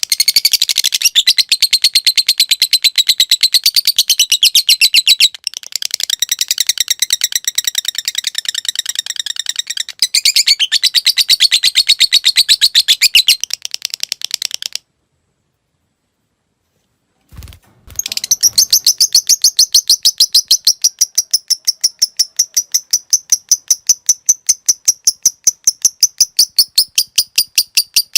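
Lovebird giving a long 'ngekek' trill: a fast, even chatter of high notes held for many seconds. It breaks off about 15 seconds in for two seconds of silence and a brief thump, then a second long, steadier trill starts about 18 seconds in.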